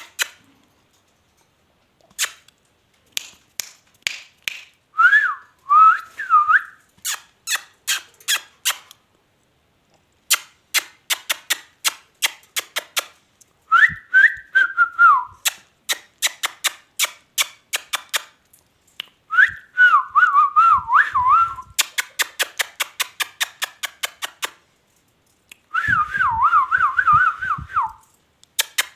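Rapid trains of sharp clicks, several a second, broken four times by warbling whistles that wobble up and down in pitch.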